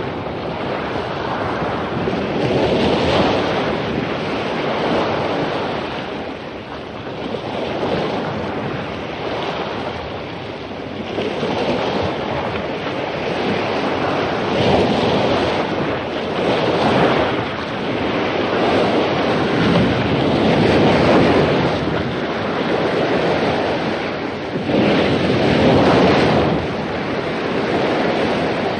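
Heavy surf breaking on a beach after a storm, waves crashing and washing in continuous swells every few seconds, with wind noise on the microphone.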